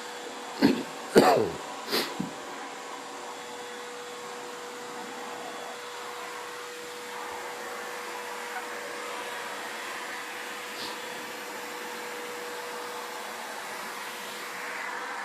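Vacuum cleaner running steadily: an even hiss with a steady motor hum. A few brief loud sounds come in the first two seconds.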